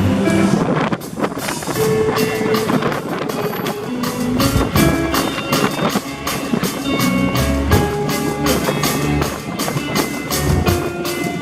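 Live band music: a steady drum beat with cymbals under guitar and other held pitched notes.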